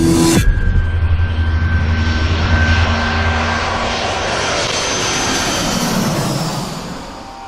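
Jet airliner passing close by: a loud rush of engine noise with a steady high whine over a deep rumble, fading away near the end.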